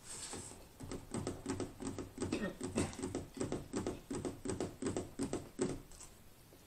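A person chewing a mouthful of corn dog close to the microphone: wet, clicking mouth sounds about four a second that stop near the end.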